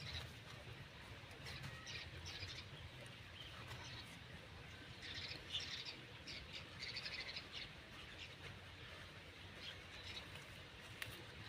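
Small birds chirping faintly in short spells of twittering, about two seconds in and again around the middle.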